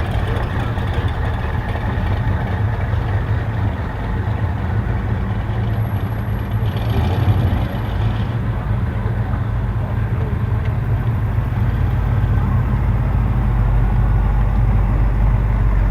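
Car engines running slowly past, a steady low rumble, with the bass growing heavier in the last few seconds as a louder engine comes near.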